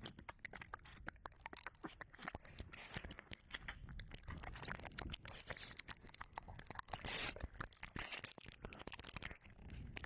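Close mouth sounds and ear licking on a 3Dio binaural microphone's ear: a dense, unbroken run of small wet clicks and smacks, with occasional soft breathy rustles.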